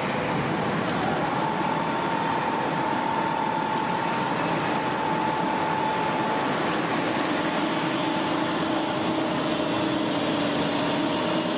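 Steady machinery noise, a motor or pump running evenly, with a few faint steady hums over it.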